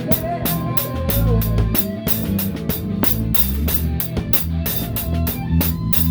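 Live rock band playing an instrumental passage, heard close from the drum kit: a Pearl kit with its snare damped by a towel keeps a steady beat of kick, snare and cymbals over bass guitar and electric guitar.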